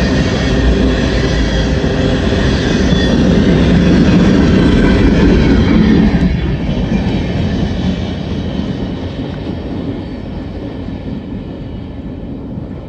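Freight train of covered hopper cars rolling past, a steady rumble of wheels on rail. About halfway through, the last car goes by and the sound drops suddenly, then fades as the train moves away.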